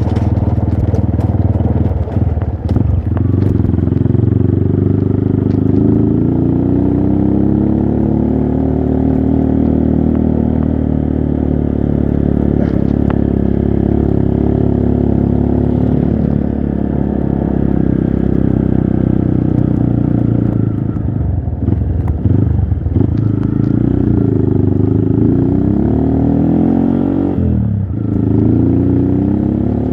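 Trail motorcycle engine running under load while riding, its pitch rising and falling as the throttle and gears change. The engine briefly drops off several times: about two seconds in, a couple of times about three-quarters of the way through, and once near the end.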